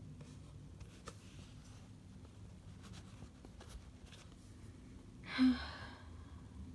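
A person's short voiced sigh about five seconds in, over faint room hum and a few light clicks.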